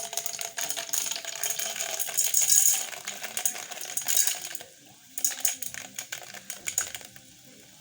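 Popcorn kernels rattling against a metal cooking pot (sufuria), a dense run of small hard clicks that dips briefly near the fifth second and fades away near the end.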